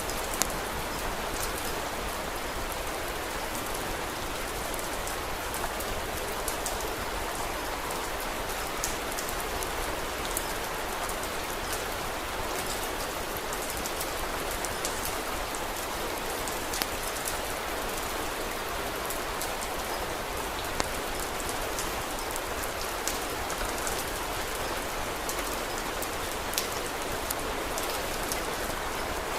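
Steady rain falling, with sharp crackles from a wood fire popping out irregularly every second or few.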